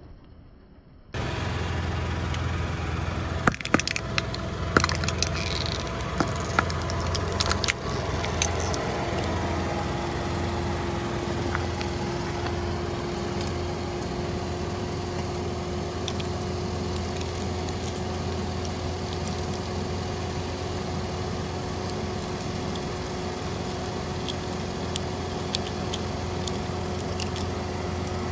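A car engine idling steadily, with a cluster of sharp cracks and clicks a few seconds in from hard plastic Hatchimals egg shells breaking and being handled, and a few light clicks of shell pieces later on.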